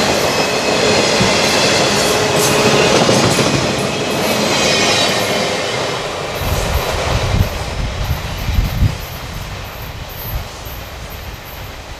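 Freight train of autorack cars rolling past close by: a steady rumble and clatter of wheels on rail with a faint high wheel squeal, thinning out as the last car passes about halfway through. After that, low gusts of wind buffet the microphone.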